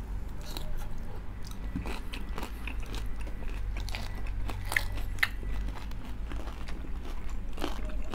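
Chewing and crunching of crispy pata, deep-fried pork leg with crackling skin: irregular crisp crunches and crackles.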